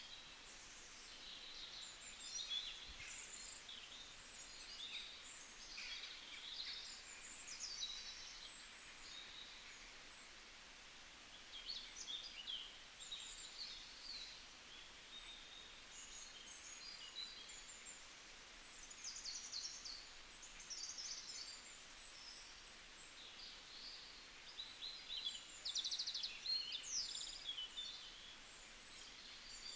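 Several small birds chirping and singing in short, overlapping high-pitched calls and trills, over a faint steady hiss. The calls come in clusters, busiest a couple of seconds in and again around three quarters of the way through.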